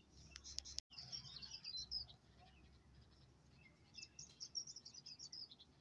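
Faint birds chirping in quick runs of short high chirps, once just after the start and again near the end, over near silence. A few soft clicks come about half a second in.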